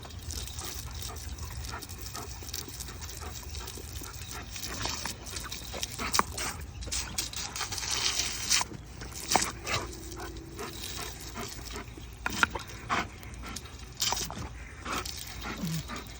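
Puppy making small whimpers and yips while it plays, amid scattered short clicks and knocks.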